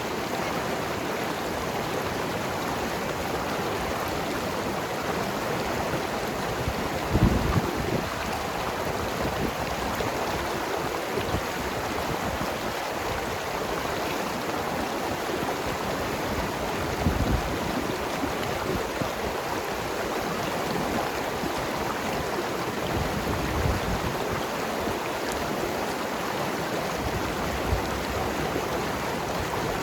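Mountain river rushing and gurgling over rocks in a steady wash of water noise, with a few short deeper gurgles, the loudest about seven seconds in and again near seventeen seconds.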